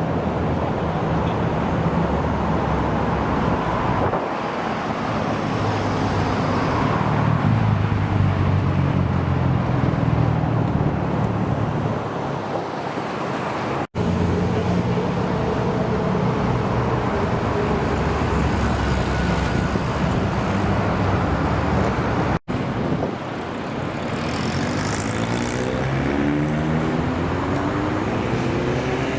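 American muscle car engines running in three short clips, with hard cuts about 14 and 22 seconds in. Over the last few seconds an engine rises in pitch as it revs or pulls away.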